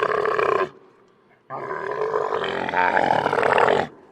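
Camel calling: two long, rough calls, the first ending under a second in and the second lasting about two and a half seconds.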